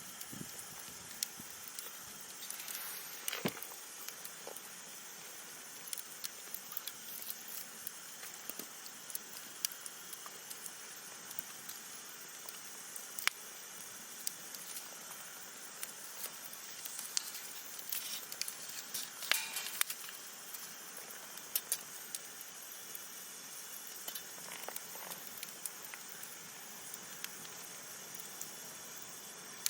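Wood campfire burning: a steady soft hiss with frequent irregular crackles and sharp pops, busiest about three seconds in and again around the middle to two-thirds of the way through.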